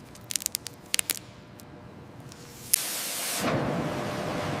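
A few light clicks, then about two and a half seconds in a steady spraying hiss starts suddenly and keeps going.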